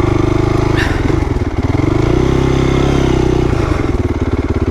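2008 Honda CRF450R's single-cylinder four-stroke engine under riding throttle. It revs high, dips briefly about a second in, climbs back up, then drops to a lower, steadier pitch near the end.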